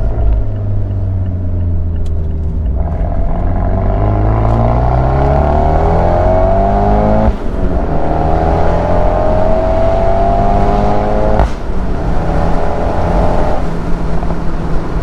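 Big-turbo Abarth 124 Spider's 1.4-litre turbocharged four-cylinder, breathing through a Ragazzon exhaust, cruises steadily and then pulls hard under acceleration with its pitch climbing. The note drops sharply at an upshift about seven seconds in, climbs again, and drops at a second upshift about four seconds later.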